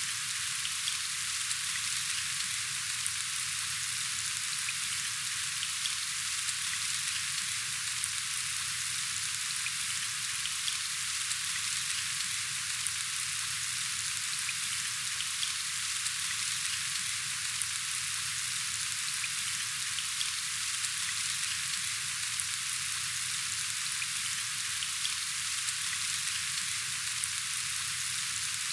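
Steady rain falling: an even hiss of many fine drops with scattered small ticks, unchanging throughout.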